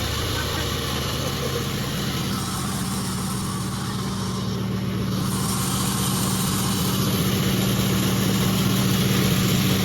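Sawmill machinery running with a steady engine-like hum. It dips slightly in level about two seconds in and builds back up.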